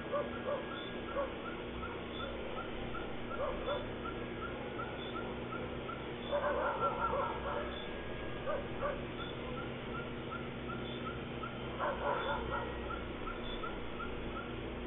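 Animal calls: a steady train of short chirps about three a second, broken by louder whining, yelping cries about six seconds in and again near twelve seconds.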